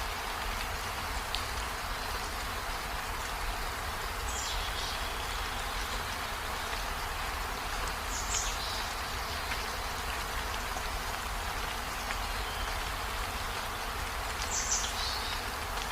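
Steady rain falling, an even hiss with a low rumble beneath it. A short high chirp cuts through three times, about four to six seconds apart.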